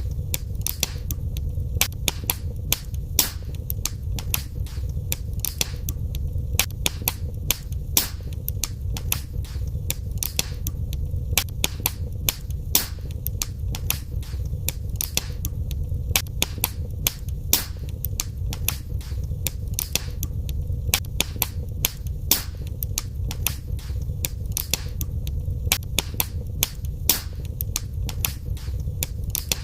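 Wood fire burning in a fireplace, crackling: frequent sharp pops and snaps over a steady low rumble of the flames.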